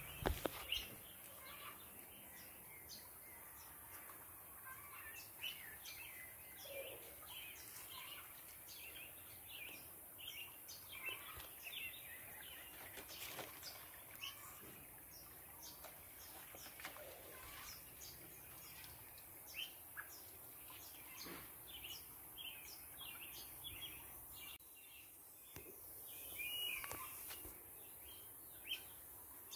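Faint birdsong: small birds chirping in short, scattered calls, with one louder call near the end.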